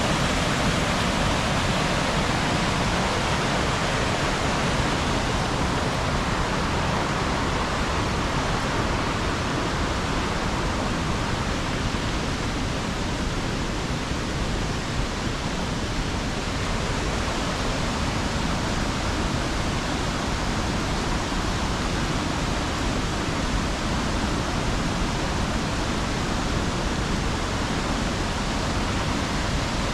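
Waterfall and river water rushing, a steady, unbroken wash of noise.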